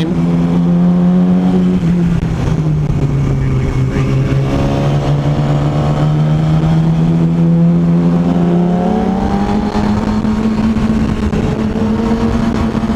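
Vehicle engine pulling steadily at cruising revs with road and wind noise. Its pitch drops about two seconds in, as at an upshift, and climbs a little around nine seconds in.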